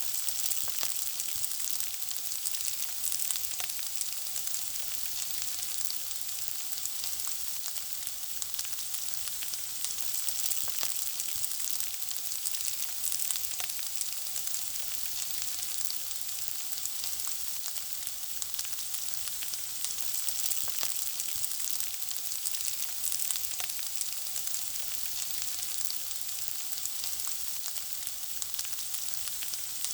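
Food frying: a steady sizzle, strongest in the high hiss, thick with small crackles and pops.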